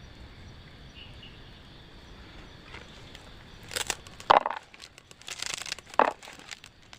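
Crinkling and crunching handling noises with a few sharp snaps, starting about halfway in after a few seconds of faint steady background.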